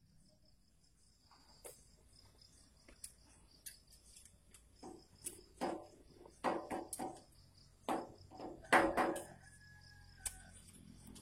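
A series of irregular sharp knocks or taps, about a dozen, loudest and closest together from about five to nine seconds in. Under them runs a steady, faint, high insect chirring.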